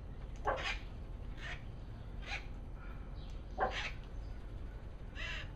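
Wild parrots squawking: about five short, harsh calls spaced roughly a second apart.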